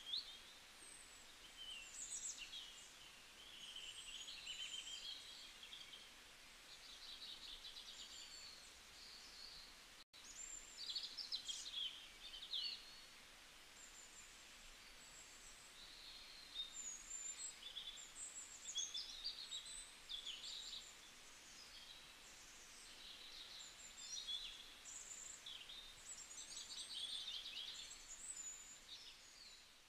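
Faint chatter of small birds chirping and trilling, many short high calls overlapping, broken by a split-second gap about ten seconds in.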